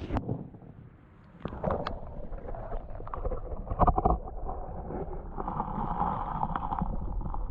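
Creek water sloshing and splashing, with a few sharp knocks; it goes quiet briefly about a second in, and a denser wash of water noise comes in after about five seconds.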